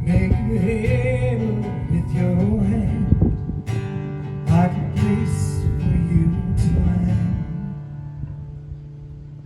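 Acoustic guitar playing an instrumental passage, strummed chords with held notes, dying away over the last two seconds.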